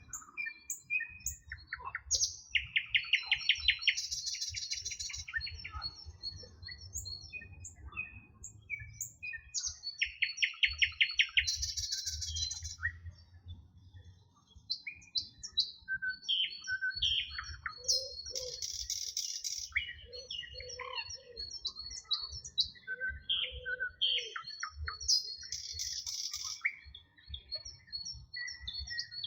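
Several songbirds singing together: many quick chirps and whistles throughout, a loud rapid trill twice (a few seconds in and about ten seconds in), and buzzy high-pitched phrases recurring every several seconds. A low rumble runs underneath.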